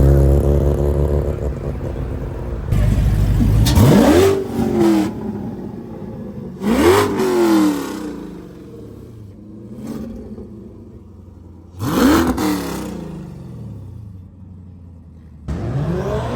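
Car engines revving hard. A loud engine under full throttle fades away over the first few seconds, then come several short revving bursts, each rising and falling in pitch, about 4, 7, 12 and 16 seconds in.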